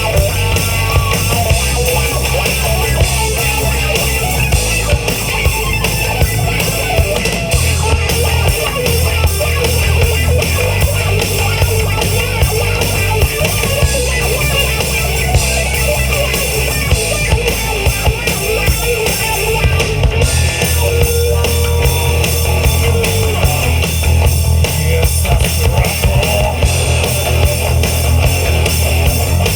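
Live rock band playing loud, heavy rock on distorted electric guitars, bass guitar and drum kit.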